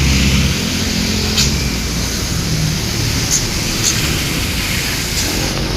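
A road vehicle running steadily, with a constant rush of road and wind noise over a low engine rumble that is strongest in the first half-second.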